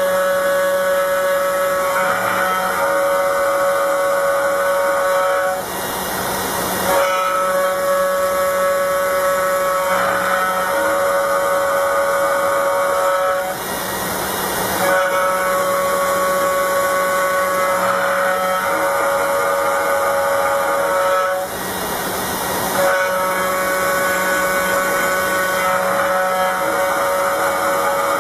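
Small CNC router spindle milling aluminium: a steady high-pitched whine with a hissing edge. The cutting tone breaks off for about a second roughly every eight seconds, three times, then picks up again.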